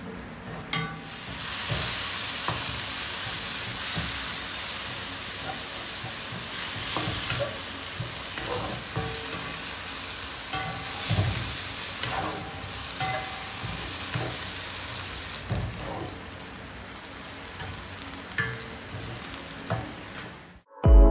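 Food frying in hot oil in a pan: a steady sizzle that starts about a second in. Occasional knocks of a cooking utensil stirring it are heard over the sizzle. The sound cuts off suddenly just before the end.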